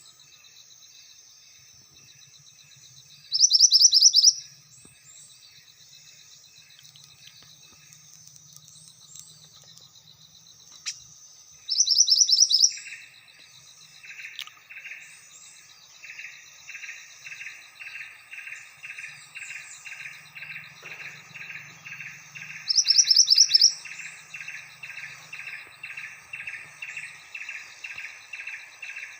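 A mantenan bird used as a lure bird, singing busily: a loud, rapid high trill of about a second three times, roughly ten seconds apart, over a row of lower pulsed notes about two a second that grows louder after about a third of the way in, with scattered high chirps throughout.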